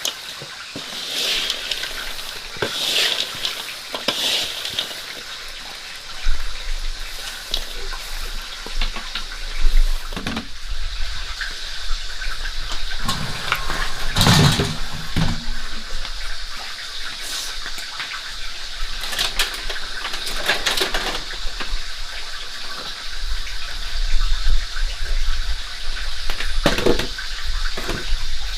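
Water running and splashing, with scattered knocks and handling sounds.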